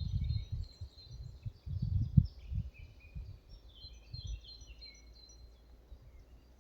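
Forest songbirds singing, a run of short high chirps and trills, over low rumbling gusts that fill the first few seconds and are loudest about two seconds in.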